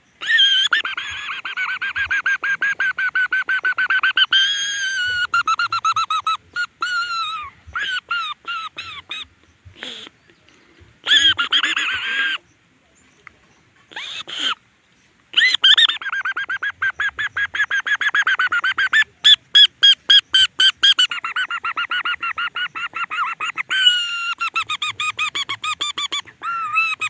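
A leaf held to the lips and blown as a bird call, giving a fast-pulsed buzzing trill, high and squeaky, held for several seconds at a time with slight rises and falls in pitch. Between the long trills come short choppy bursts and brief pauses, with a near-silent gap about halfway through.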